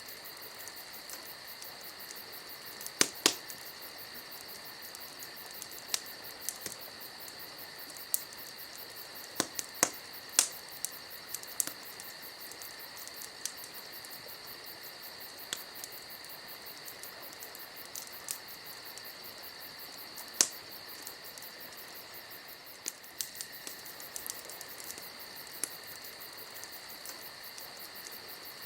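Campfire crackling with scattered sharp pops, the loudest a few seconds in, around ten seconds and around twenty seconds. Under them, crickets chirr steadily.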